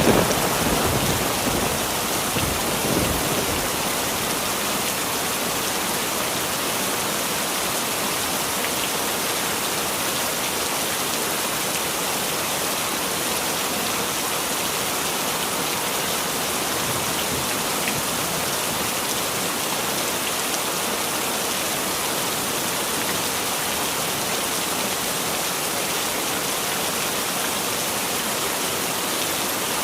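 Heavy rain falling steadily, an even hiss throughout. In the first few seconds the last of a thunder rumble dies away beneath it.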